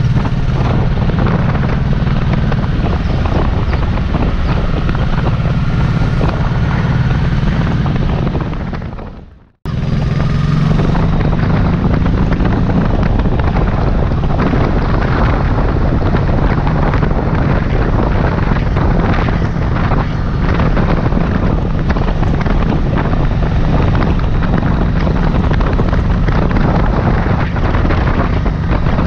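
2006 Honda Shadow Sabre's V-twin engine running steadily at cruising speed, with wind noise buffeting the helmet-mounted microphone. The sound fades out and drops to silence briefly about nine seconds in, then resumes at the same level.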